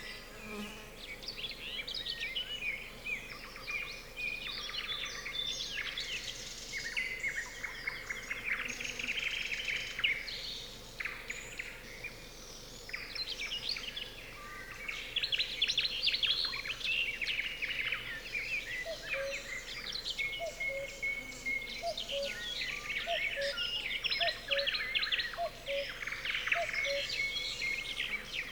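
Nightingales singing over one another in rapid trills, clicking rattles and whistled phrases. From about two-thirds of the way through, a cuckoo calls its low two-note 'cuck-oo' again and again, about once a second, beneath the song.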